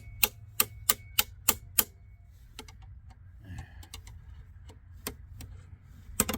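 Sharp metallic taps from hand tools working on the breaker's metal parts. An even run of about three a second lasts roughly two seconds, followed by a few scattered lighter taps and one loud one near the end.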